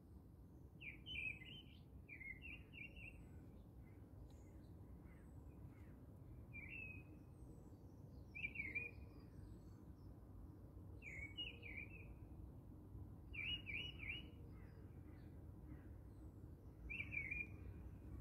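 Faint bird chirping: short, repeated chirps every one to three seconds over a low background hum.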